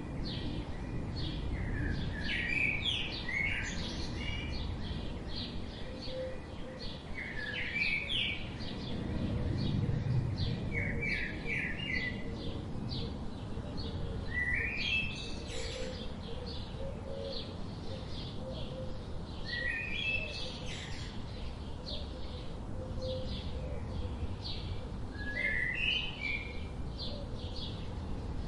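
Small birds chirping: clusters of short, rising chirps every few seconds over a steady background of faint, rapid chirps, with a low rumble underneath.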